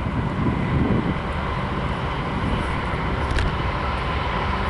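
Steady low rumble of a freight train running past, with a faint steady high tone above it and a single sharp click near the end.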